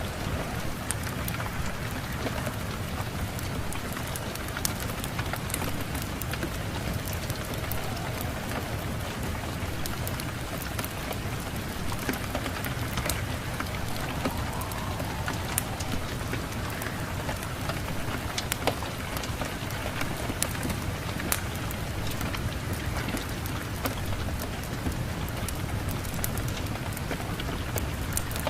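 Steady rain with a low rumble underneath, dotted with frequent sharp ticks and crackles.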